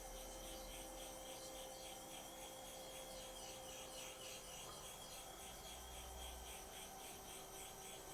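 Faint, steady, rhythmic rubbing strokes on a Welsh slate sharpening stone.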